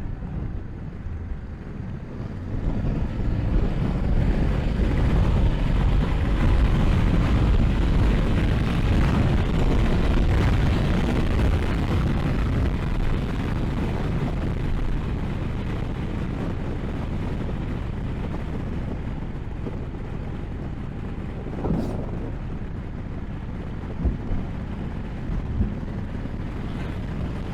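Wind rushing over a helmet-mounted action camera on a moving Honda Africa Twin motorcycle, with the bike's running underneath; it grows louder a couple of seconds in, then eases off gradually.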